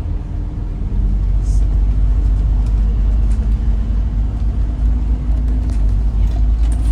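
Scania N94UD double-decker bus heard from inside the passenger cabin while under way: a steady, deep engine and road rumble that gets louder about a second in.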